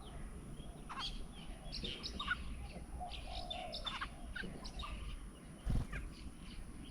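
Several small birds chirping and calling in quick short notes, overlapping one another. A single dull thump about six seconds in is the loudest sound.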